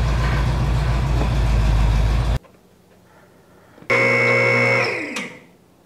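Pontiac Trans Am's V8 engine idling with a steady low rumble, which cuts off abruptly a little over two seconds in. About a second and a half later, a loud steady tone with a high whine starts suddenly and drops in pitch as it fades.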